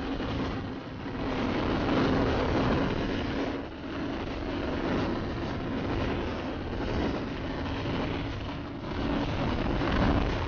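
Motorcycle engine running at a steady cruise with heavy wind rush over the microphone, the loudness swelling and dipping with gusts.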